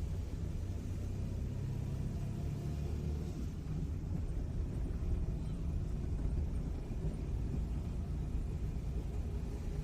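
Steady low rumble of a moving road vehicle, with a faint hum above it.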